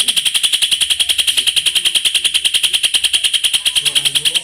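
Green leafbird (cucak ijo) singing a long, rapid trill ('roll speed'), an even run of high notes at well over a dozen a second that stops abruptly at the end.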